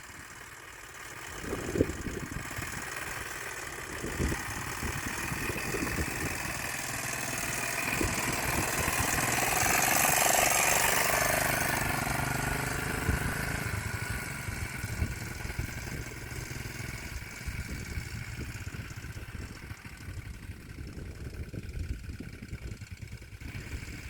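Quad bike engine running as it rides off, growing louder to a peak about ten seconds in as it comes close, then fading as it moves away.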